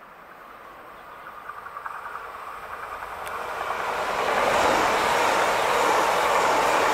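Red DB electric multiple unit approaching and passing close by. Wheel-on-rail noise grows louder with a brief run of rapid ticks about a second and a half in, then holds loud and steady with a faint whine as the carriages go past.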